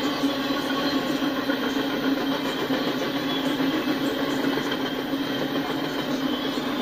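Double-stack container train's well cars rolling past: a steady, unbroken noise of steel wheels running on the rails.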